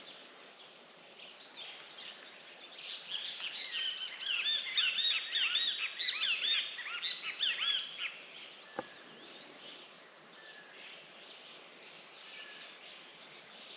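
Birds calling: a rapid run of repeated high chirps for about five seconds in the middle, then fainter scattered calls over a quiet outdoor background, with one sharp click about nine seconds in.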